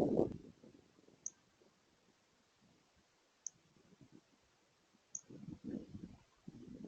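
A few sharp clicks about two seconds apart, typical of a northern cardinal's beak pecking seed from a bird feeder's catch tray, with low gusts of wind on the microphone in the second half.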